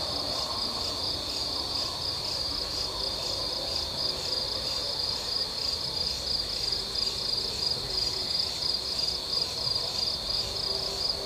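A steady, high-pitched chorus of forest insects, pulsing evenly a couple of times a second.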